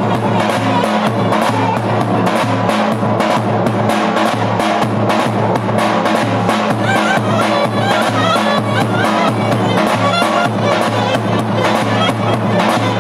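Live wedding dance music with a steady, even drum beat under a melody line.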